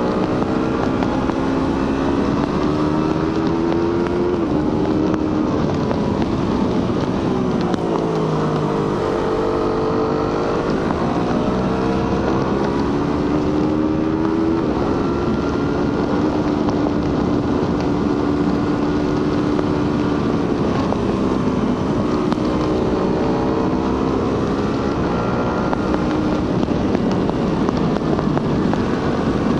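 Suzuki GSX-R150's 150cc single-cylinder engine heard through its stock exhaust while riding. The engine note climbs and drops back several times, with sharp drops about four and fifteen seconds in and dips near eight and twenty-one seconds, as the revs rise, the gears change and the throttle eases off.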